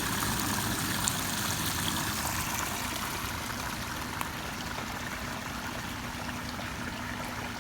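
Water running steadily through a gem-mining sluice, a continuous rushing hiss, with a faint steady low hum coming in about three seconds in.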